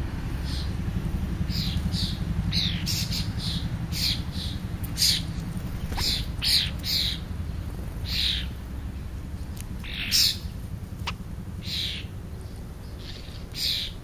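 Birds at a feeding spot giving repeated short, high calls, each dropping in pitch, roughly one a second and unevenly spaced. A steady low rumble runs underneath, and there are a couple of sharp ticks.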